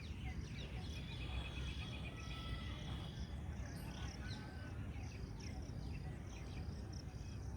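Several birds calling: a rapid trill of evenly spaced notes from about one to two and a half seconds in, and many short downward-sliding chirps. These sit over a steady low rumble of background noise.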